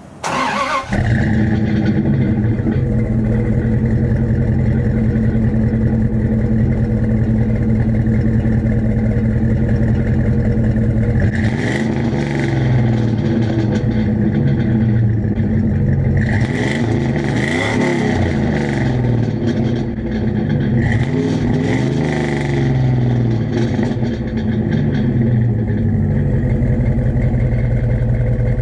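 Dodge Ram's 318 (5.2-litre) V8 starts about half a second in and then idles through an old Flowmaster muffler, one of whose two outlets is capped off with a can. It is revved briefly three times in the middle.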